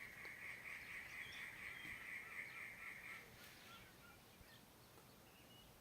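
Faint bird calls: a steady rough chorus of calling for about the first three seconds, then scattered short chirps.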